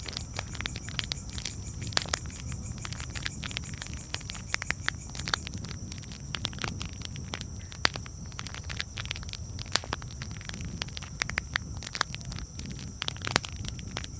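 Campfire crackling: frequent irregular sharp pops and snaps over a steady low rumble, with a few louder pops spread through.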